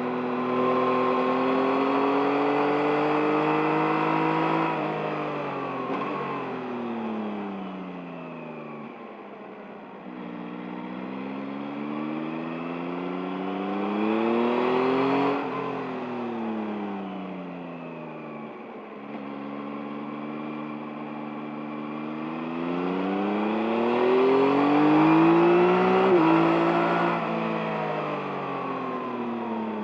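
2023 Yamaha MT-09's 890 cc three-cylinder engine under way, its pitch repeatedly climbing under acceleration and falling away as the throttle is rolled off for bends. The longest pulls peak about halfway through and again near the end, followed by quick stepped drops in revs.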